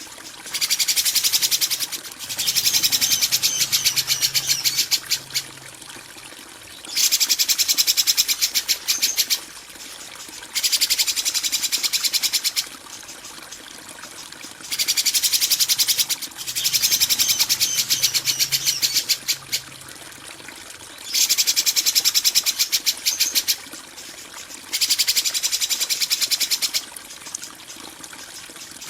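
Songbird masteran recording of harsh, rough bird song ('kasaran'): about eight bursts of very fast, high-pitched chattering trills, each one to three seconds long, repeating every few seconds over a faint steady background hiss.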